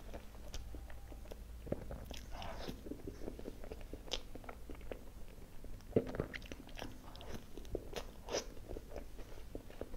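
Close-miked chewing of soft cream cake: a steady run of small wet mouth clicks and smacks, with a few sharper clicks, the loudest about six seconds in, and a fresh forkful taken in near the end.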